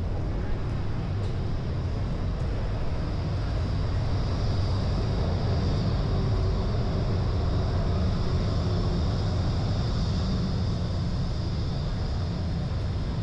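Steady city street traffic noise, a low rumble with a higher hiss that grows a little louder in the middle, as a vehicle passes.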